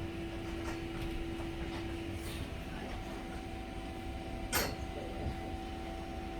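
Heritage tram rolling along the street: a steady low rumble with a steady electric hum, and one sharp click about four and a half seconds in.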